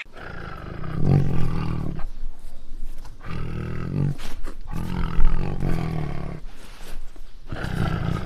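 A large wild animal giving deep, drawn-out vocal calls in four long bouts, each lasting one to two seconds, with short pauses between them; the last bout starts near the end.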